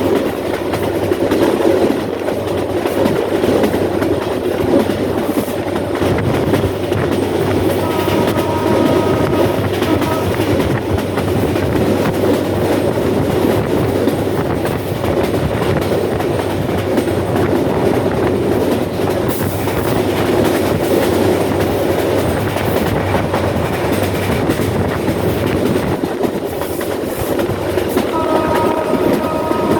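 Bangladesh Railway's Rangpur Express passenger train running at speed: a steady rumble and clickety-clack of wheels on rail. Its horn sounds for about two seconds around eight seconds in, and again near the end.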